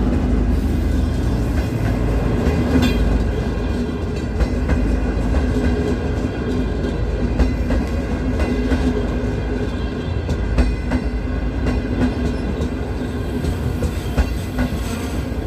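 Diesel-hauled passenger train's coaches rolling past close by: a steady heavy rumble of wheels on rail, with irregular sharp clicks as the wheels cross rail joints.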